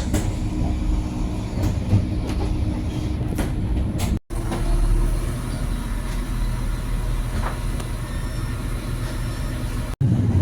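Passenger train running along the track: a steady low rumble with occasional light clicks. The sound drops out for an instant about four seconds in.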